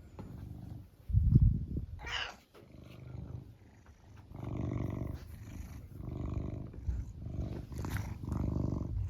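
Brown tabby domestic cat purring in slow, rhythmic rounds with each breath, after a loud low thump about a second in.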